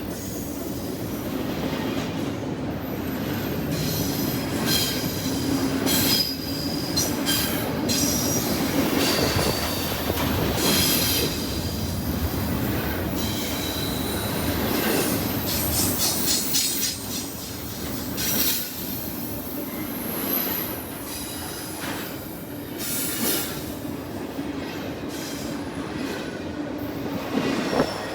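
CSX freight train cars rolling past, their steel wheels squealing against the rail with thin high tones, over a steady rumble and repeated clacks as wheels cross rail joints.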